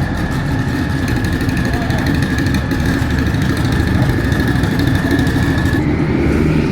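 Loud car engine running steadily with a deep, rough exhaust rumble that sounds like a monster. A thin high whine holds steady over it and steps up in pitch near the end.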